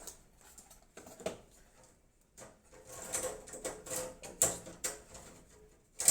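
Light clicks, taps and rustles from a PC case's parts and accessories box being handled, with a sharper click about four and a half seconds in.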